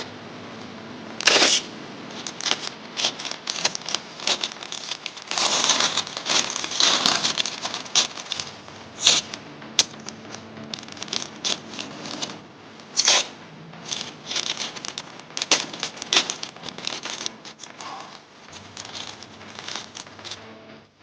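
Masking paper crinkling and masking tape being pulled off the roll and torn, in a run of irregular rustles and sharp tearing sounds, with a longer stretch of crinkling about five to seven seconds in.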